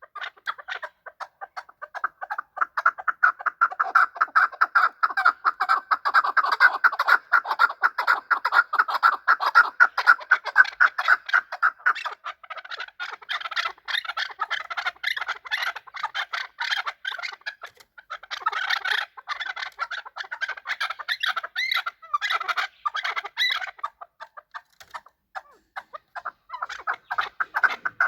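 Chukar partridges calling: long runs of rapid, repeated clucking notes, with a few short breaks.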